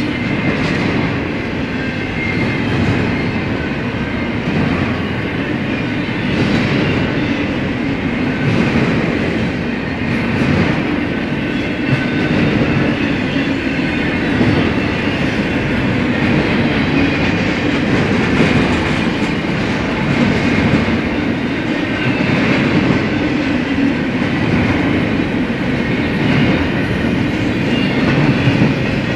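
BNSF freight train's cars rolling past at steady speed: a continuous rumble of steel wheels on rail with irregular clicking over rail joints and a faint high ringing from the wheels.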